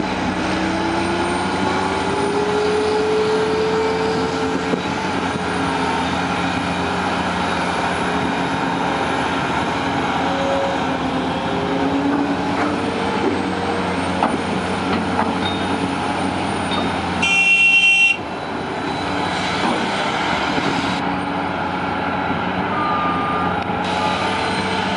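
Caterpillar 345CL excavator's diesel engine running steadily under load, with the hydraulics whining up and down in pitch as it digs and swings. About three-quarters of the way in, one short horn blast sounds.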